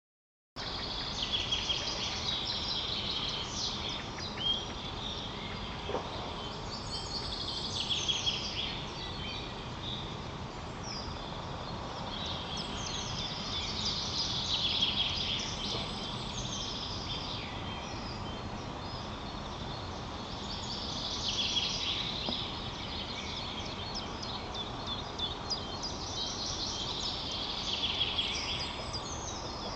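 Small birds singing in short high trilled phrases every few seconds, over a steady outdoor background hiss.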